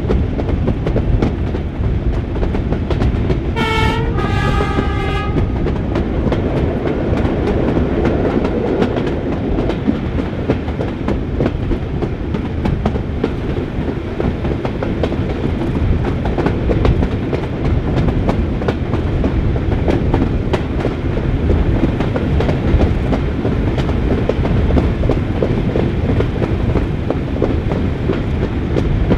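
Riding in a carriage behind a Class 31 diesel locomotive: a steady rumble of running, with the wheels clicking over rail joints. About four seconds in, the locomotive's two-tone horn sounds briefly, a higher note and then a lower one.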